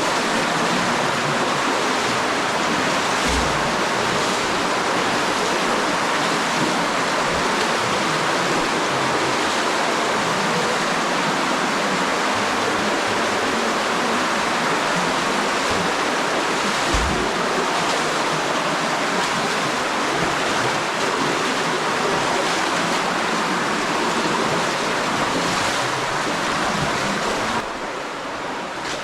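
Water of a cave spring, swollen by recent rain, rushing steadily through the passage, with two brief dull knocks. The sound drops a little about a second before the end.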